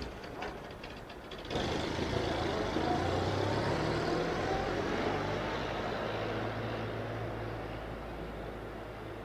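Ford Model TT truck's four-cylinder Model T engine ticking over with an uneven beat, then about one and a half seconds in it suddenly gets louder and runs steadily. After that it slowly fades, as the truck pulls away.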